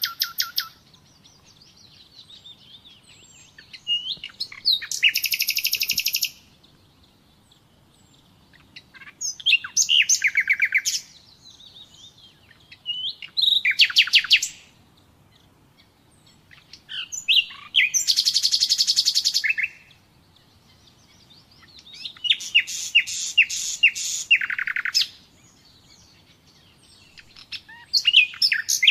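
Common nightingale singing: phrases of rapid repeated notes, each a second or two long, with short pauses between them, about six phrases in all.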